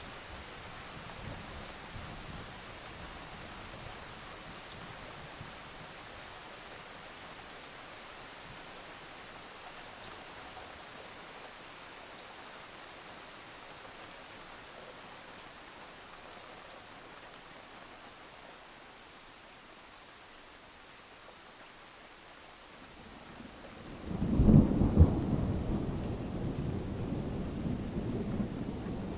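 Steady rain hiss with a faint low rumble of thunder about two seconds in. About 24 seconds in a loud thunderclap breaks, crackling and followed by a continuing rumble over the rain.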